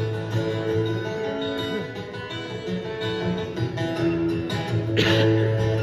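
A live band plays a guitar-led instrumental passage of a song with no singing, over a steady bass line. A brief noisy burst comes about five seconds in.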